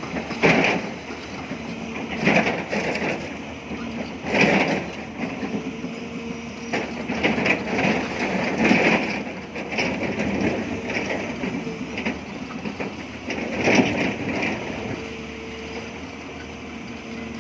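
Hyundai excavator's diesel engine running under a steady drone, with its bucket scraping and breaking limestone in loud crunching bursts several times over.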